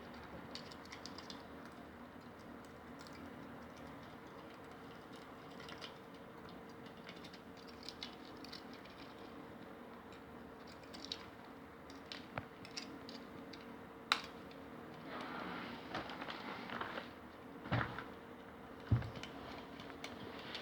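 Grey parrot picking at paper and cardboard toys in its play box: scattered small clicks and scratches, with a sharper knock or two and a longer scratchy stretch near the end, over a faint steady hum.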